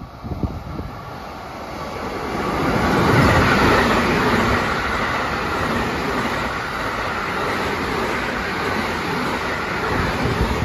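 Electric multiple-unit rapid train passing through a station at high speed without stopping. The noise of wheels on rails builds from about half a second in, is loudest about three seconds in, then holds steady as the long train runs by.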